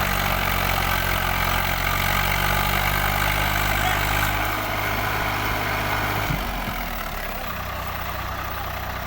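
New Holland tractor's diesel engine running steadily. About six seconds in, its note changes and settles slightly quieter and lower.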